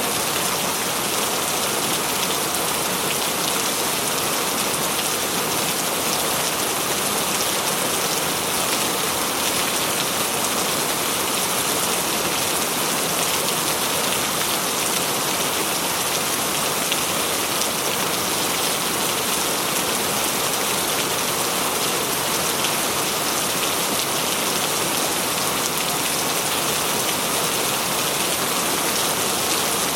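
Heavy rain falling steadily on a corrugated tin roof, an even, unbroken patter.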